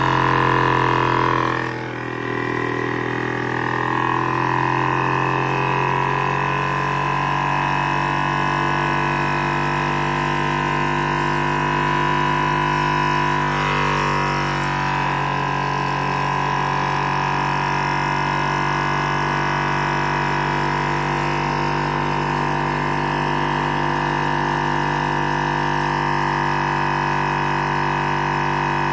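High-speed Stirling engine with a hybrid thermoacoustic displacement system running, giving a steady droning hum with many overtones. The sound dips briefly about two seconds in and wavers briefly about halfway through, then holds steady.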